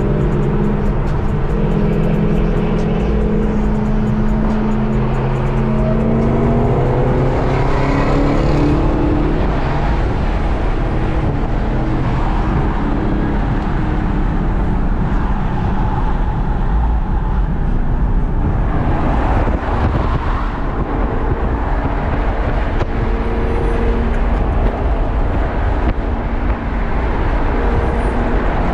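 American V8 muscle car engines running, with engine pitch climbing about six to nine seconds in as a car revs or pulls away.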